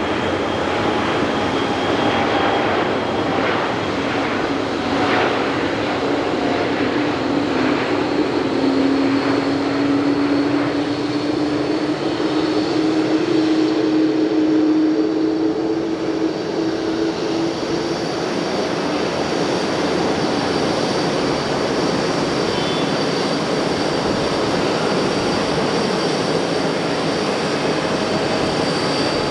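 Jet airliner's engines running as it passes: a steady dense roar with a low droning tone that slowly rises in pitch over the first half.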